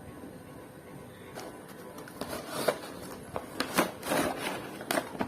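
Hands handling a toy car and its packaging: rustling and scraping with several sharp clicks, busiest in the second half.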